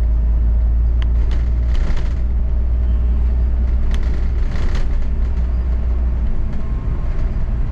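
Double-decker bus running, heard from on board: a steady low drone with a few short clicks and rattles.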